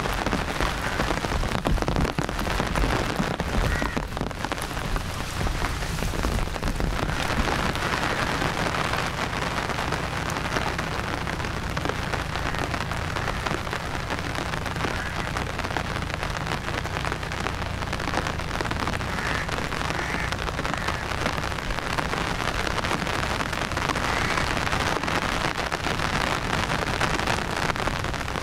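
Steady rain falling, an even, dense hiss of drops with no breaks.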